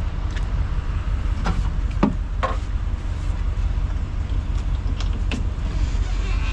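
Truck engine idling with a steady low hum, and a few faint short sounds about two seconds in.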